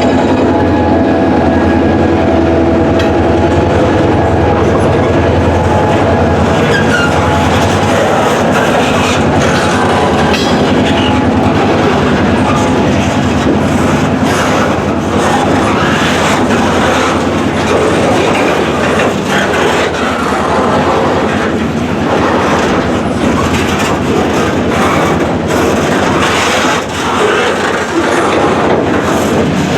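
Freight train rolling past at close range, its wheels clattering steadily over the rail joints. For the first several seconds there is a steady diesel drone, which then fades under the wheel noise.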